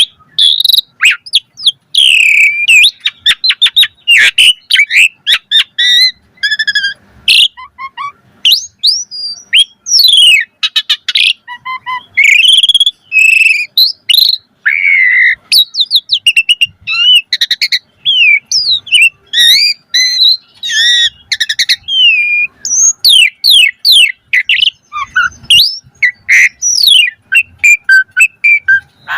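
Asian pied starling (jalak suren) singing a long, varied song of quick high whistles, chirps and trills, phrase after phrase with brief pauses between them.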